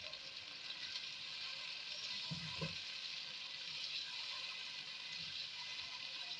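Tomato, yogurt and spice masala sizzling steadily in a pan as it is stirred and fried down with a spatula, with two low knocks of the spatula against the pan a little over two seconds in.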